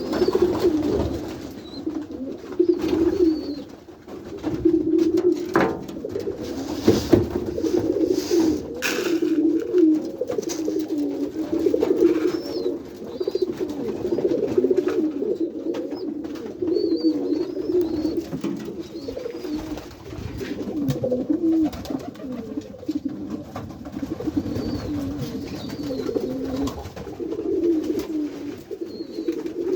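Many domestic pigeons cooing together, an unbroken overlapping chorus of low warbling coos, with a few faint high chirps and scattered knocks and rustles of the birds moving.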